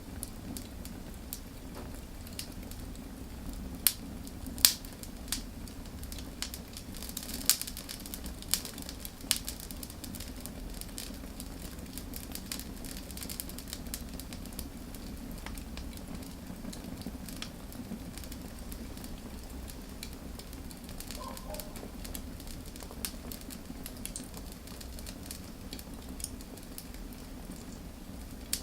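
Wood fire crackling: a stream of small snaps and pops, with a few louder pops between about 4 and 9 seconds in, over a steady low rumble.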